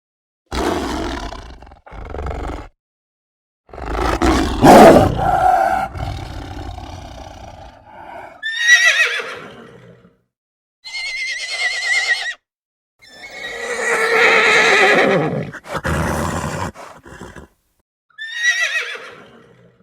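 Horse whinnying and snorting: a string of separate calls with short silences between them, several of the whinnies sliding down in pitch.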